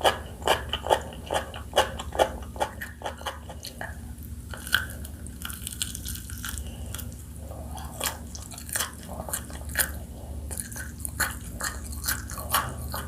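Close-up chewing and crunching of spicy fried chicken: quick regular chews, about two to three a second, for the first few seconds, then sparser crunches with a quieter stretch in the middle.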